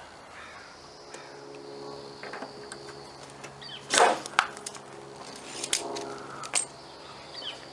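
Paintless dent repair tools working on a car panel: one loud sharp click about four seconds in, then a few lighter clicks, over a steady low hum.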